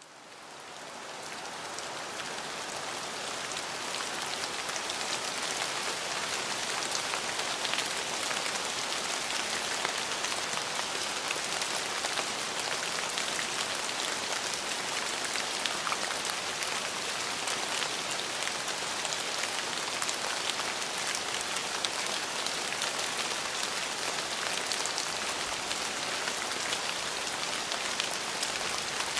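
Steady rain falling, a dense even patter with scattered individual drop ticks. It fades in over the first couple of seconds, then holds level.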